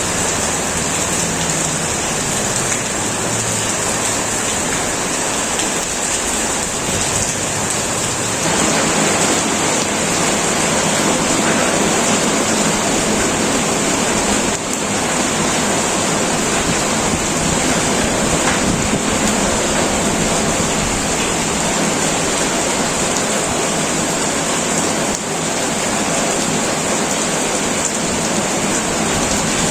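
Heavy rain drumming steadily on a tin metal roof, growing denser and heavier about eight seconds in. A low rumble sits under the rain in the first few seconds.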